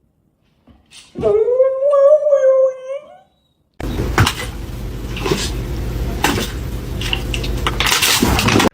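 A dog's long, wavering howl-like whine about a second in. About four seconds in a steady loud rushing noise with a low hum starts suddenly and runs on.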